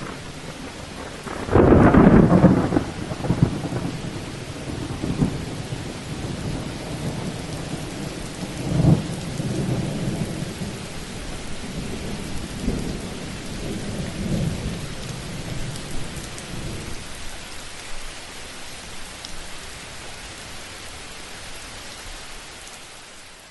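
Thunderstorm: steady rain with a loud thunderclap about two seconds in, then a second clap later on and long rolling rumbles of thunder. Near the end the rumbling dies away and the rain fades out.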